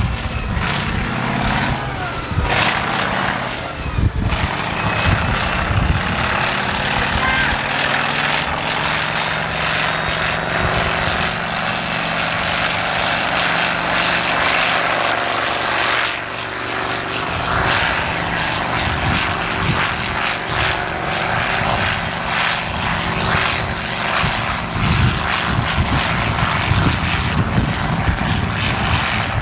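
Modified tractor-pulling tractor's engine running hard under load, a loud, steady engine note under a dense wash of noise. It eases briefly about sixteen seconds in, then picks up again.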